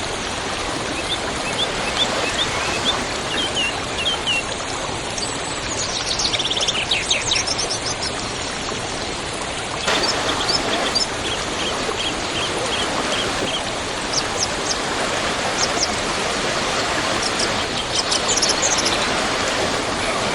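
Waterfall rushing steadily, with small birds chirping over it in quick series of short notes. The water sound shifts abruptly about halfway through and twice more near the end.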